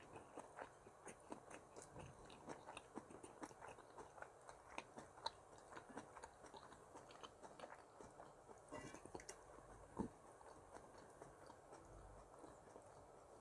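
Faint chewing of tuna kimchi stew, with scattered small clicks of eating and one sharper tap about ten seconds in.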